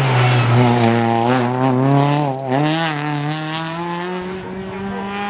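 Rally car engine at high revs: its pitch drops as it comes off the throttle at the start, then climbs steadily as it accelerates under load, with a brief dip about two and a half seconds in.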